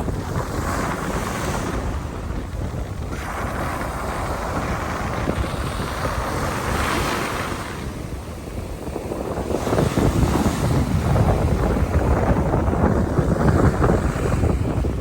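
Sea waves breaking and washing on the shore in several swells, growing louder and heavier about two-thirds of the way through, with wind buffeting the microphone.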